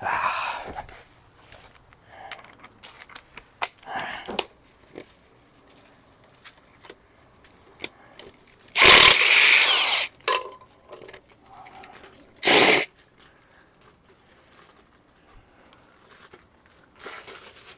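Impact wrench running in two bursts, one of about a second and a shorter one a few seconds later, with scattered clicks and clanks of tools and bolts between them.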